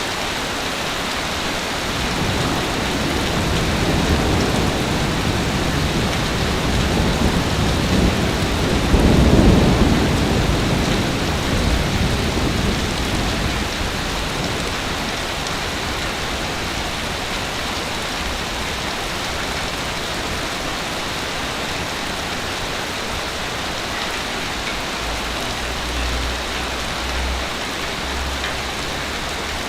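Waves breaking on a beach: a steady wash of surf that swells to a peak about nine seconds in as a wave breaks, then eases back to a constant hiss.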